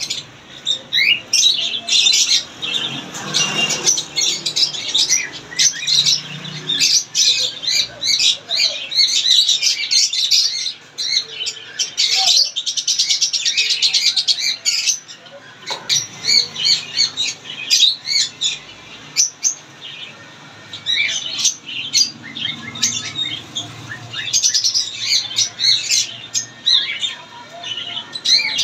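Parrots chirping and squawking: many short, high calls in quick succession, several overlapping at once.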